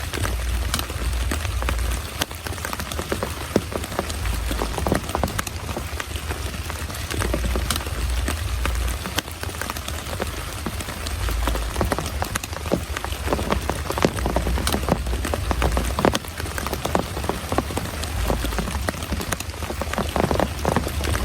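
Heavy rain pouring, with a dense hiss and many large drops tapping sharply and irregularly close by. A low rumble swells and fades underneath.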